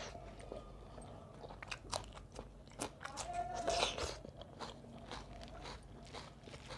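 Close-miked eating sounds: a person chewing and crunching mouthfuls of rice and roast chicken eaten by hand, with irregular wet mouth clicks and a louder mouthful a little past halfway.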